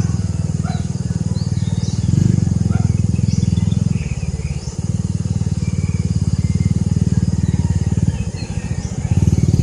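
Birds chirping in short scattered calls over a loud, steady low rumble that dips about four seconds in and again about eight seconds in.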